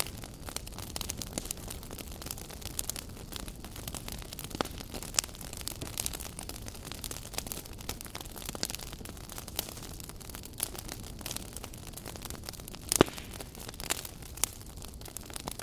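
Wood fire burning in a fireplace, crackling and popping against a steady low rumble, with one louder pop about 13 seconds in.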